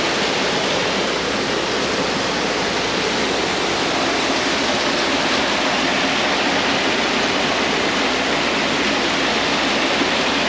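A steady, even rushing noise with no distinct tones or strikes, like fast-running water or wind.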